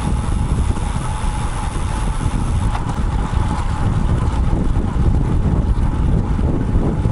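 Wind buffeting the microphone of a bike-mounted action camera on a moving road bike: a steady low rumble with a faint steady tone running through it.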